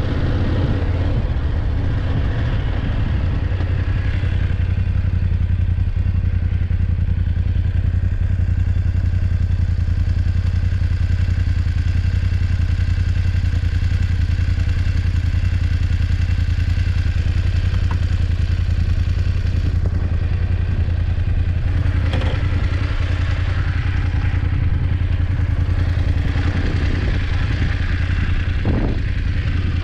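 BMW F850GS motorcycle's parallel-twin engine running at a steady pace while riding, with a few knocks and rattles from the bike, more of them near the end.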